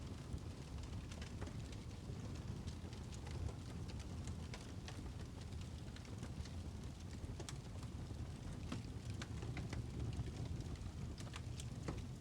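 Birchwood fire crackling in a fireplace: a steady low rumble of burning with irregular sharp pops and snaps scattered throughout.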